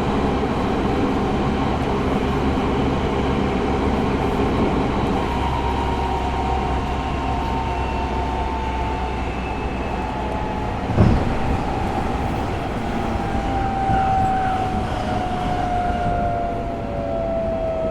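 Tokyo Metro 05 series subway car running, heard from inside the car, with the steady rumble of wheels on rail. From about six seconds in the Mitsubishi IGBT-VVVF inverter's whine sounds in several tones that fall steadily in pitch as the train slows for the next station, and a single knock comes about eleven seconds in.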